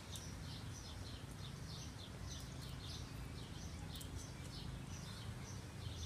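Faint outdoor ambience: a bird chirping over and over, about two to three short chirps a second, over a steady low background hum.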